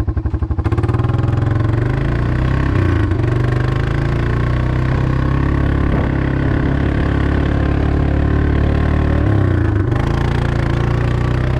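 A vehicle engine running: it fires unevenly for the first second, then settles into a steady idle, with a brief dip and rise in pitch near the end.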